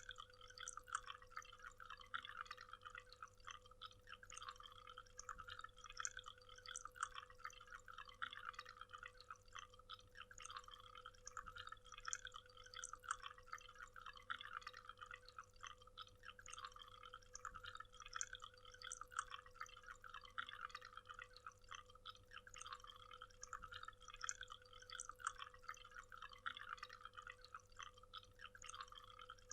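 Waterfall: falling water splashing steadily and faintly, heard as a dense patter of many small drips and splashes, with a faint steady hum underneath.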